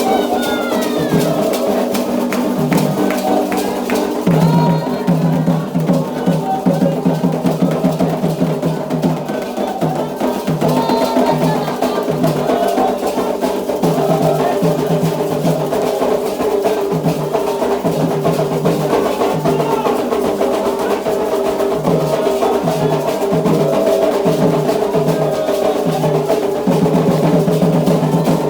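Candomblé ritual percussion: atabaque hand drums and a struck bell playing a fast, steady repeating pattern, with singing voices over it.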